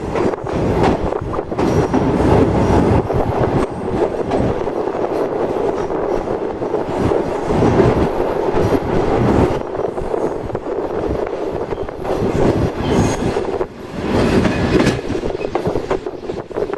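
Moving passenger train, the Karachi Express: a loud, steady rumble and rattle of the coach with irregular clatter of the wheels on the track.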